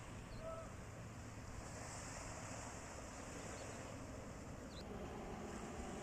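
Sea waves washing on the shore: a steady rushing with soft swells every few seconds. A few faint short chirps sound over it.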